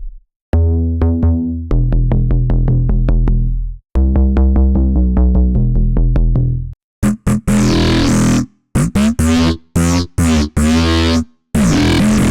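Vital software synthesizer presets playing electronic bass sounds: first a rhythmic run of short, repeated pitched notes for about six seconds, then, after a brief pause, growling bass tones whose timbre sweeps and wobbles, chopped into short phrases with small gaps.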